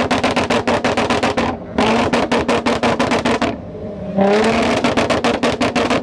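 Car engine revved hard and held on the rev limiter, the ignition cut stuttering about ten times a second. Twice it drops off briefly, then climbs back onto the limiter about four seconds in.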